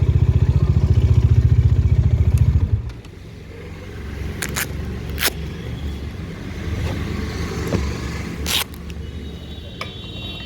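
Bajaj Dominar 400's single-cylinder engine running with a fast pulsing beat, then dropping away sharply about three seconds in to a quiet low rumble. A few sharp clicks or knocks sound in the quieter part.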